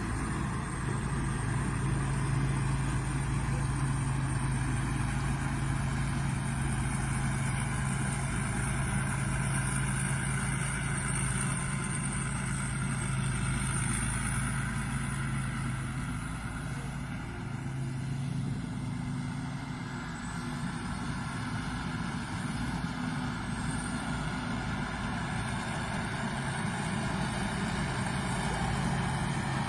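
Rice combine harvester's engine running steadily, with a continuous high-pitched whine above it; the engine sound eases slightly a little past the middle.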